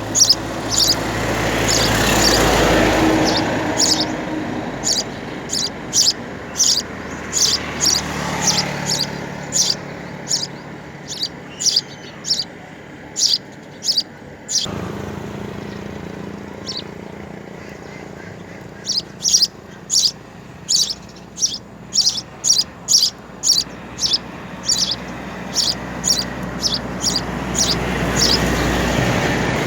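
Small birds chirping, many short, high chirps in quick runs, at a nest where adults feed three young. A vehicle passes twice, its rushing sound swelling about two seconds in and again near the end.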